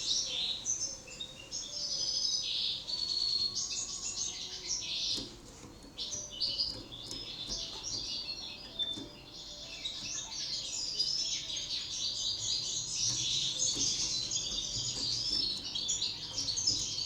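Domestic canary singing a long, continuous warbling song of rapid trills and rolls.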